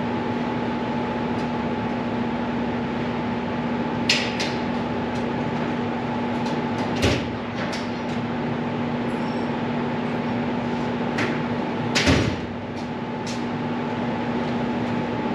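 Steady droning hum of shop machinery, with three short metallic clanks and a few lighter clinks as a socket and wrench are fitted onto the differential pinion nut.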